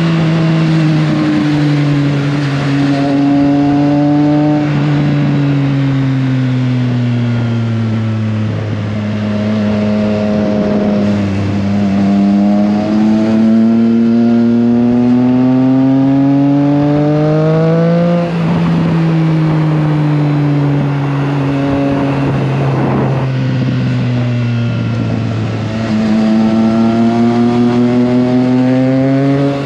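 Triumph Trident 660's three-cylinder engine under way. It slows in pitch for several seconds, then climbs steadily under acceleration. About 18 seconds in the pitch drops suddenly, as on a gear change, then falls off again. Near the end it steps back up and pulls again, all over a steady rush of wind.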